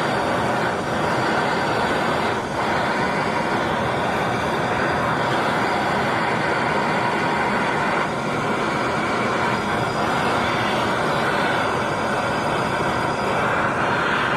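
Handheld torch flame hissing steadily, heating a sway bar bushing bracket bolt to help free it before removal.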